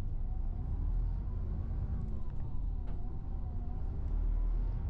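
Road and engine noise heard from inside a moving vehicle: a steady low rumble, with a faint wavering tone above it.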